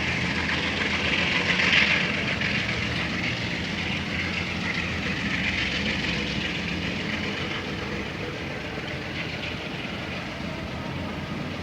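Amtrak Capitol Corridor passenger train pulling away: the diesel locomotive is running and the wheels rumble on the rails. The sound is loudest about two seconds in, then slowly fades.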